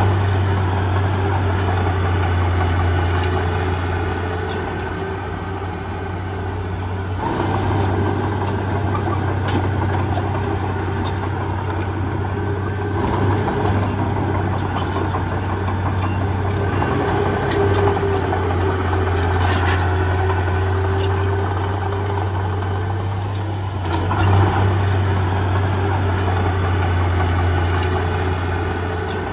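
Heavy diesel engine running steadily with a deep hum, its note shifting a couple of times as the load changes.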